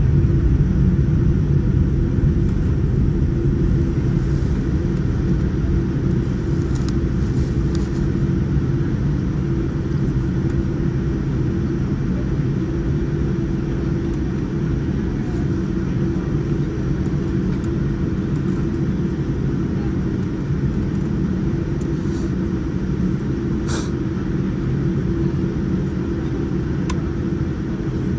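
Boeing 787-9 engine and airflow noise heard inside the passenger cabin: a loud, steady low rumble with a steady hum, easing slightly over the stretch.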